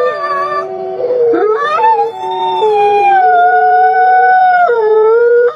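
A dog howling in long held notes that shift up and down in pitch.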